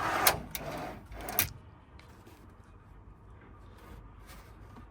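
A fridge being pushed and slid into a tight fitted space, scraping and knocking for about a second and a half as it catches against a beam and won't go in. It then goes quiet apart from faint handling noise.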